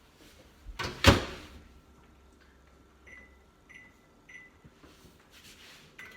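Microwave oven door shut with a sharp knock about a second in, then three short keypad beeps about half a second apart as the cooking time of 1 minute 30 seconds is keyed in.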